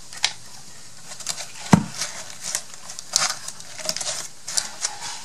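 Light clicks, taps and rustles of small paper craft embellishments being picked up and set down on a table, with one sharper knock just under two seconds in.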